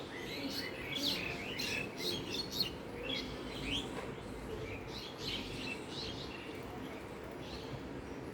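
Small birds chirping in quick short calls, many overlapping, busiest in the first few seconds and again midway through, with fewer calls near the end, over steady background noise.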